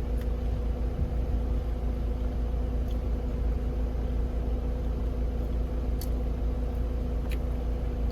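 Steady low rumble with a constant hum from a running motor, with a few faint ticks.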